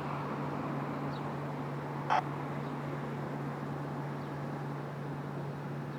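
Steady wash of distant jet aircraft noise across the airfield, with a constant low hum underneath. A single short chirp, likely a bird, about two seconds in.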